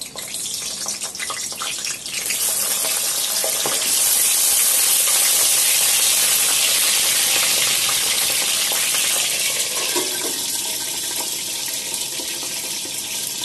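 Slit whole small brinjals sizzling in hot oil in a steel kadhai: a few light knocks as they go in, then a loud, even hiss that swells about two seconds in and eases slightly near the end.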